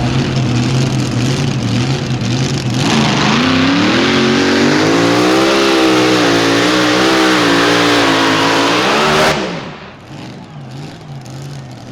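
A pulling vehicle's engine comes up to full throttle about three seconds in and runs hard for about six seconds, its pitch wavering and slowly rising. It then cuts off abruptly, leaving a lower, quieter steady hum.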